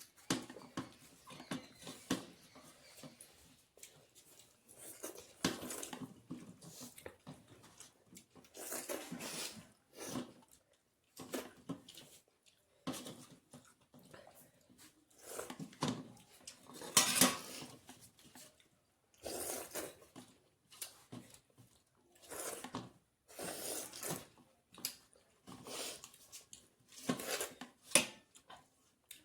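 A person eating close to the microphone: irregular chewing and mouth sounds, with occasional clinks and scrapes of food being gathered from a plate.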